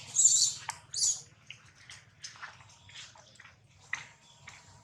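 Water splashing in two short bursts near the start, then scattered light drips and ticks.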